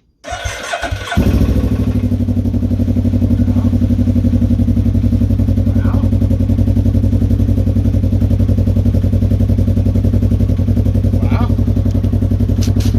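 Can-Am Ryker 600's Rotax two-cylinder engine cranking and catching about a second in, then idling steadily with an even, throbbing exhaust pulse.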